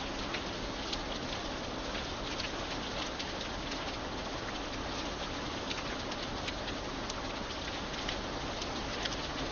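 Steady rain falling, with single drops ticking sharply through the even hiss.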